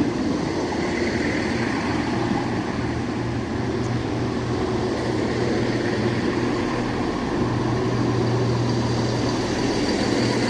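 ScotRail Class 170 Turbostar diesel multiple unit pulling into the platform, its underfloor diesel engines giving a steady hum.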